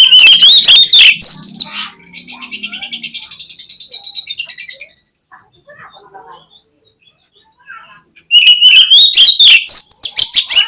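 Oriental magpie-robin (kacer) singing: a loud burst of rapid, varied, harsh notes, then a quieter buzzy trill and a few faint notes, and a second loud burst of rapid notes about eight seconds in.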